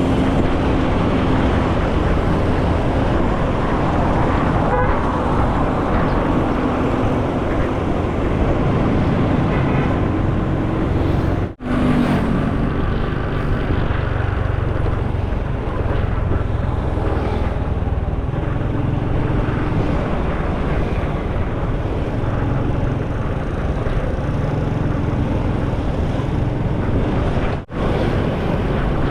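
Steady road noise of a motorcycle ride: engine, tyres and rushing wind picked up by an action camera on the moving bike. It cuts out for a split second twice, once near the middle and once near the end.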